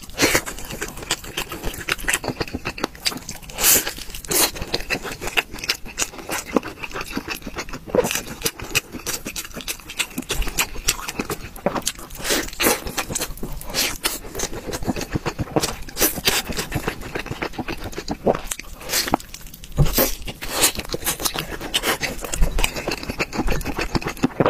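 Close-miked eating: a person biting and chewing crispy fried food, making dense, irregular crunches and crackles.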